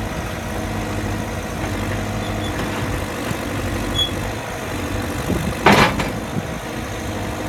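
JCB 3CX backhoe loader's diesel engine idling steadily. A short, loud rush of noise cuts in briefly about six seconds in.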